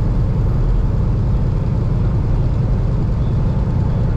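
Steady engine and road noise of a vehicle driving at highway speed, heard from inside the cab as a low, unbroken drone.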